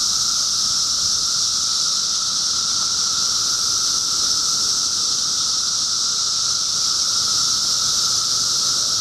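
Dense chorus of periodical cicadas, a steady, unbroken high-pitched drone with a lower hum beneath it.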